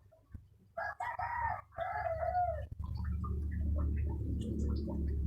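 A rooster crowing once, about a second in, in two bending phrases lasting nearly two seconds, followed by a steady low rumble.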